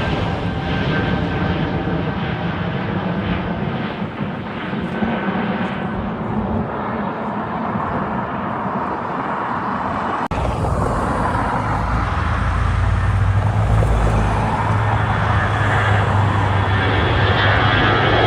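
Airliner jet engines running nearby, a steady rushing noise. About ten seconds in, the sound changes abruptly to a louder, low steady drone that builds toward the end.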